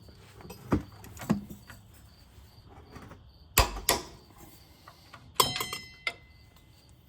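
Sharp metallic clicks and knocks from a torque wrench being worked on the upper control arm nuts, a handful spread out, with a short ringing metal clatter about five and a half seconds in.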